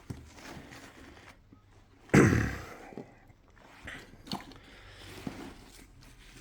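Nylon backpack being handled: a loud rustle-and-thump of the bag about two seconds in, then a few faint clicks and rustles of straps and buckles.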